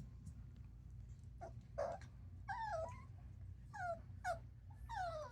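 Poodle puppy whimpering: a string of short, high, wavering whines. The last one is drawn out and falls in pitch.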